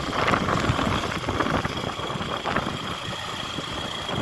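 A motor vehicle's engine running steadily, with rough, rumbling noise throughout and a faint steady high whine.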